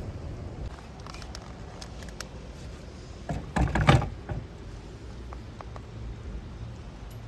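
A short burst of clattering, rattling handling noise about halfway through, with a few lighter clicks either side, over a steady low rumble of traffic.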